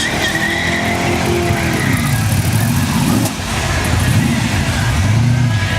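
Car engines idling, their revs rising and falling in small throttle blips.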